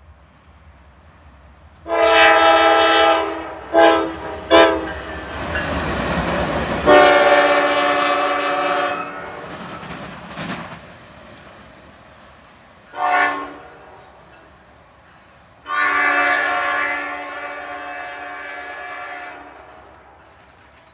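Norfolk Southern locomotive air horn sounding a series of blasts: a long one about two seconds in, two quick short toots, another long blast, then a short one and a final long blast near the end. Around the middle, the loud rumble of the passing engine rises and fades, and the horn's pitch sits slightly lower after it passes.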